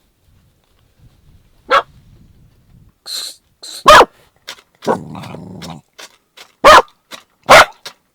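A dog barking: four loud, sharp barks spaced one to three seconds apart, with a low growl just after the second bark.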